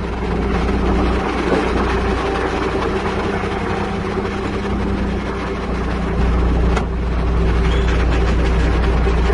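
Heavy diesel engine running steadily, its low rumble growing louder about six seconds in.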